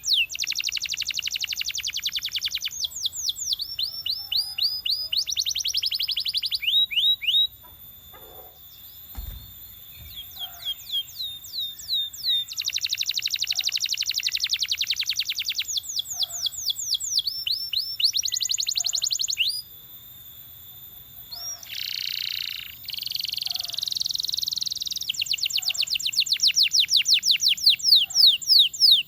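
Belgian canary singing in long, fast trilled rolls of rapidly repeated rising and falling notes, switching from one tour to the next. The song breaks off briefly twice, and a low thump sounds about nine seconds in.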